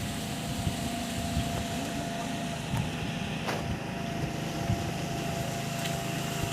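Wind buffeting the microphone over a steady hiss of rain.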